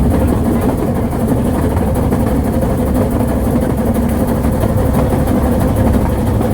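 Steady, loud low rumble of a moving narrow-gauge train running along the line, with a faint continuous hum.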